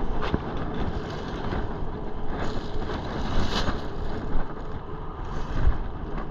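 Road traffic going by with wind on the microphone, one passing vehicle louder about three seconds in.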